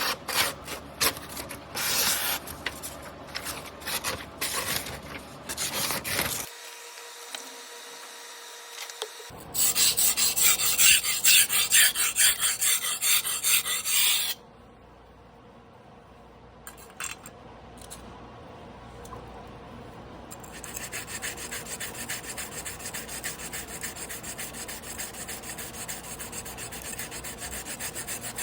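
A Damascus carbon-steel sashimi knife blade scraped back and forth by hand on a whetstone. The first few seconds have uneven groups of strokes. A loud, fast run of strokes comes about a third of the way in, and the second half has steady, rapid, even strokes.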